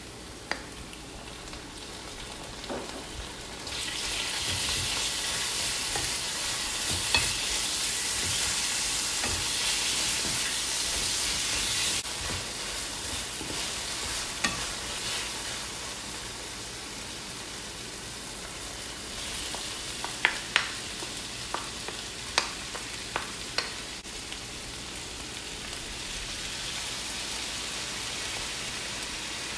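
Food frying in hot oil in a pan, a steady sizzle that grows louder for several seconds and again later on. A quick run of sharp taps comes about two-thirds of the way through.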